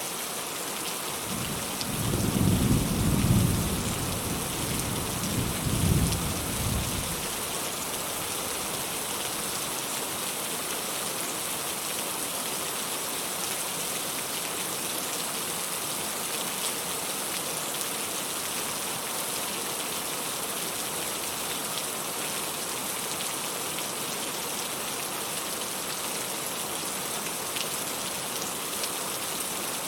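Steady rain falling, with a low rumble of distant thunder rolling in about two seconds in, swelling twice and fading by about seven seconds.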